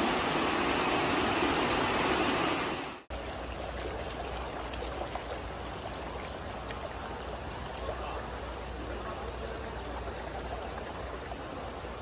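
Heavy rain and rushing floodwater, a steady loud rush. About three seconds in it cuts off abruptly to a quieter rush of water over a steady low rumble.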